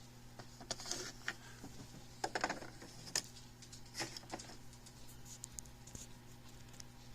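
A few scattered short clicks and small knocks, like equipment being handled, over a steady low electrical hum.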